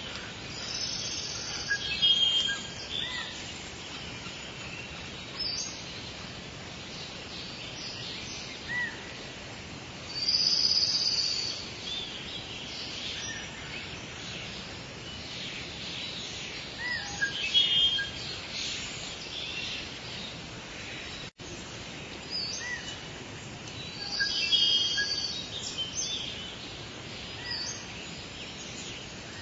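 Soft, steady rain falling, with birds chirping in short bouts every several seconds. The sound cuts out for an instant about two-thirds of the way through.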